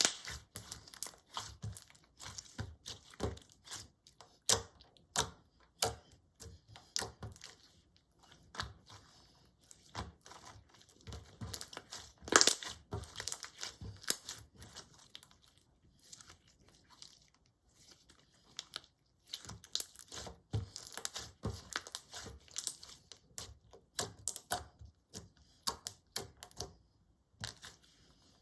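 Clear slime being pressed, stretched and folded by hand, giving irregular sticky pops and crackles, with one louder pop about twelve seconds in.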